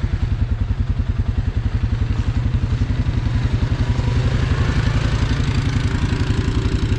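ATV engine idling with a steady, even putting, a little louder in the second half.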